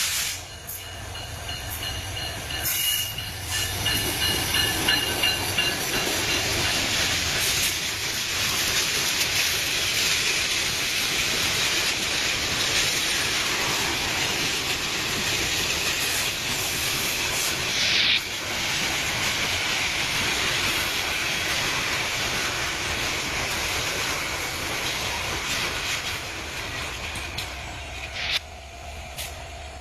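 Lalmoni Express passenger train running on the rails: a steady rush of wheel and rail noise that builds over the first few seconds and drops away near the end.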